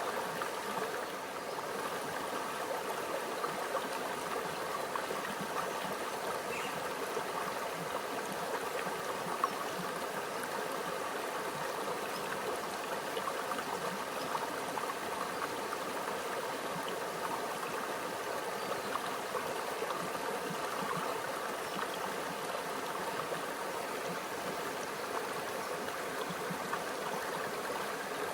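A small stream flowing steadily over rocks, an even babbling and trickling of water.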